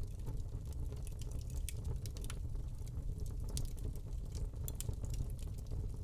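Wood fire burning in a fireplace: a steady low rumble of flames with frequent small, sharp crackles and pops from the burning log.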